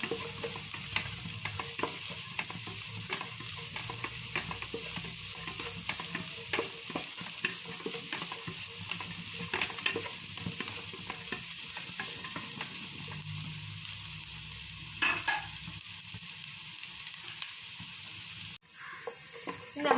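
Chopped beans, carrot and cabbage sizzling in a frying pan on medium flame, with a spatula clicking and scraping against the pan as they are stirred.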